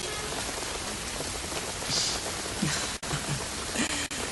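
Steady rain falling, an even hiss, with a brief louder hiss about two seconds in.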